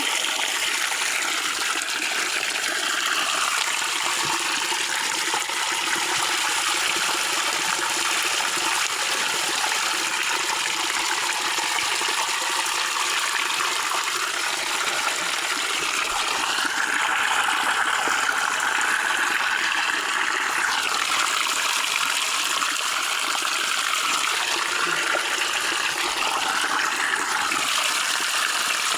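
Fresh water running steadily out of a tree's roots, a continuous splashing trickle, slightly louder a little past the middle.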